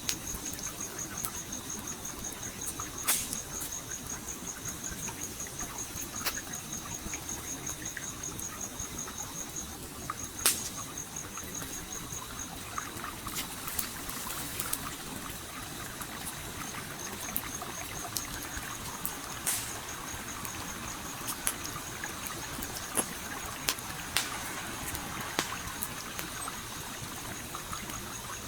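Campfire crackling, with sharp pops every few seconds, over a gently flowing stream. A high, fast-pulsing insect trill runs through most of it and breaks off for a few seconds around the middle.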